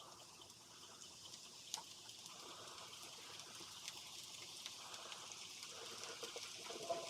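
Vegetables sizzling in a pan: a soft, steady hiss with faint scattered crackles, growing slightly louder.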